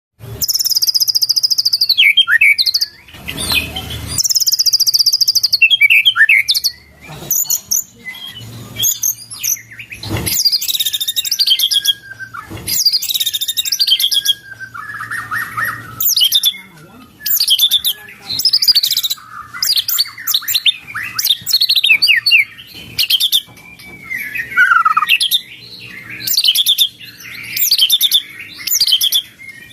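A white-rumped shama (murai batu) singing loud, varied phrases of whistles, glides and fast chattering notes, its song filled with learned cililin phrases.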